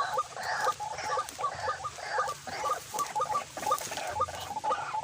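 White-breasted waterhen calling: a rhythmic series of repeated short notes, about three a second, going on without a break.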